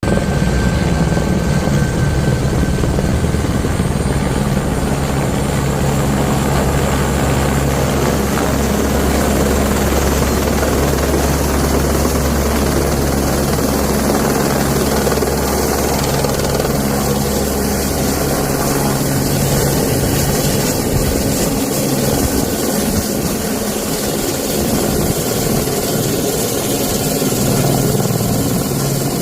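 Helicopter rotor and engine running loud and steady. Its deepest rumble drops away about two-thirds of the way through.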